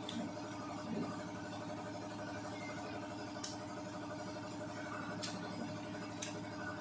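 A steady mechanical hum of a running motor, with a few faint sharp clicks over it.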